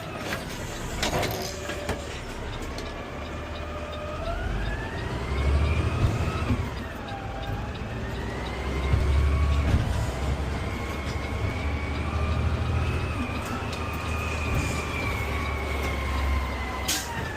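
Peterbilt 520 garbage truck heard from the cab while driving: a low engine rumble that swells and eases, with a whine that rises in pitch about four seconds in, dips briefly, climbs again and then holds steady.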